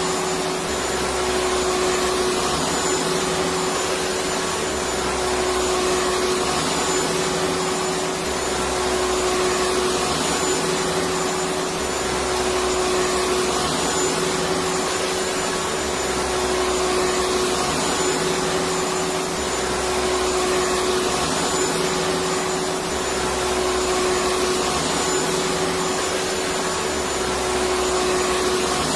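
Electric vacuum cleaner motor running steadily, a constant rushing noise with a steady whine, played as white noise to lull a baby to sleep. A low hum underneath swells and fades about every three and a half seconds.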